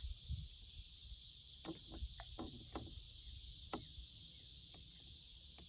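A steady high insect drone, with a handful of short knocks and rattles from handling gear in a plastic kayak, mostly in the middle of the stretch.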